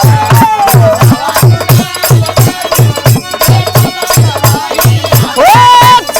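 Bhojpuri birha folk music: a steady drum beat with jingling percussion under a melodic line that falls early on and glides up to a long held note about five and a half seconds in.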